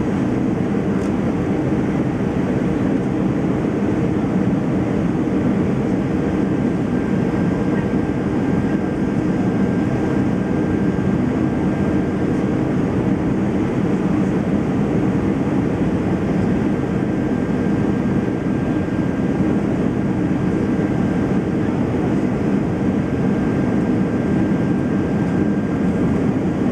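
Steady cabin noise inside an Airbus A320 in flight on approach: a constant low engine and airflow rumble. A faint thin whine joins about six seconds in and fades near the end.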